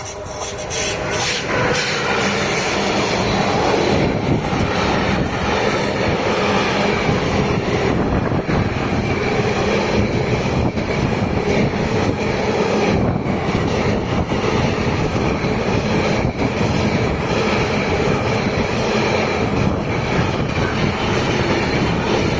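A train passing close by at speed, its wheels running over the rails in a loud, steady rush with light clicks and some wheel squeal.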